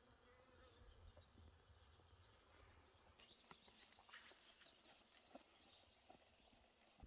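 Near silence: faint outdoor ambience with a few faint clicks and short high chirps, the clicks gathered about halfway through.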